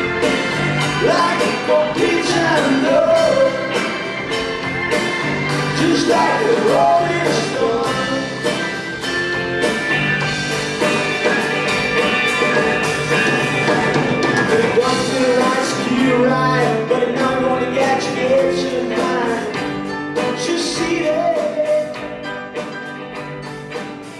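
Rock band playing live, a singer over the band with drums keeping a steady beat, fading out over the last few seconds.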